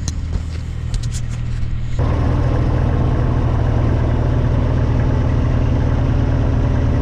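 Diesel engine running steadily, then getting suddenly louder and fuller about two seconds in and holding there, as if throttled up, with a few light clicks just before.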